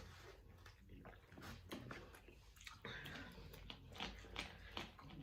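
Faint chewing and mouth sounds from someone eating a sandwich, with scattered small clicks.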